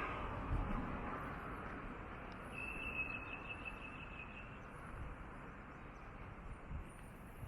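Outdoor ambience: a rushing noise that fades over the first second or two, faint high bird chirps throughout, and a single high steady whistle lasting about two seconds, starting roughly halfway in.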